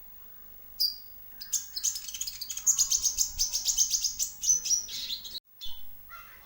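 Kolibri ninja (Van Hasselt's sunbird) song played as a lure recording. A single high chirp is followed by a fast, rapid-fire run of high, sharp chirps for about four seconds. The run cuts off suddenly, and a few more chirps follow near the end.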